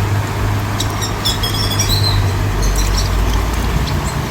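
Small birds chirping in short high notes over a steady low rumble.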